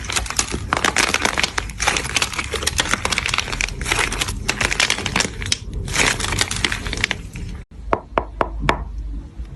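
Dense, continuous crackling and crunching, as of something being crushed. After a sudden cut near the end, a few separate sharp cracks follow.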